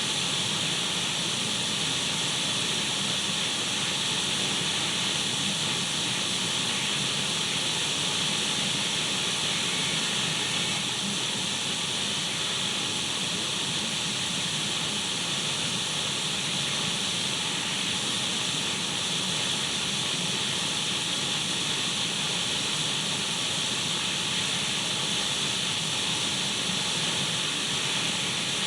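Radio static: a steady, even hiss, brightest in the upper range, with a weaker low band beneath.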